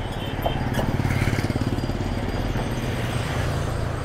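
A motor vehicle engine running close by, its low pulsing rumble swelling about a second in, over the steady noise of road traffic.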